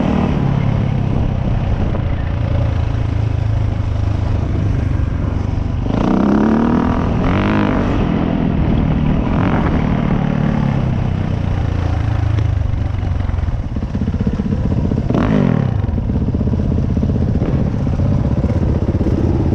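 Dirt bike engine running, revving up several times with rising pitch about six to ten seconds in and again about fifteen seconds in.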